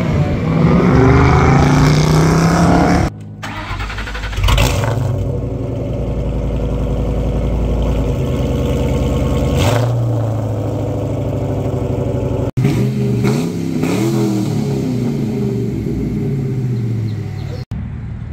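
Car engines revving in several short clips cut together. In the middle clip a Ford Mustang GT's V8 idles with a deep, steady exhaust note and is blipped hard twice, about four and a half and nine and a half seconds in. The clips before and after it hold engines revving up and down.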